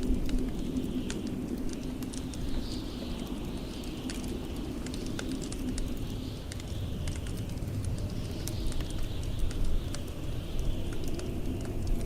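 Wood fire crackling with frequent sharp pops over the steady low rumble of blizzard wind, which rises and falls in wavering gusts.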